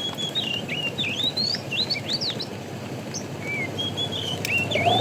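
A songbird singing a rapid run of short whistled chirps that slide up and down in pitch, over a faint steady outdoor hiss.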